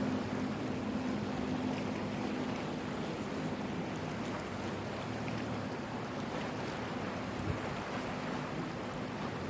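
Sea waves washing in the harbour, with the steady low hum of a boat's engine running. The hum fades somewhat partway through and comes back near the end.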